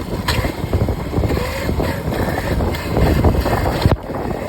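Wind buffeting the microphone and rumbling road noise from riding a small electric dirt bike, with a sharp knock near the end.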